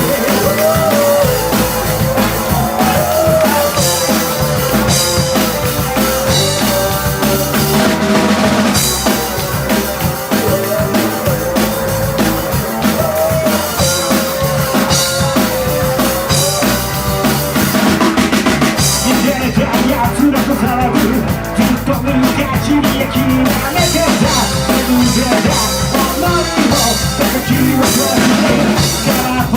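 Rock band playing an instrumental passage of a fast rock-and-roll song, with a full drum kit driving the beat under a held, wavering melody line.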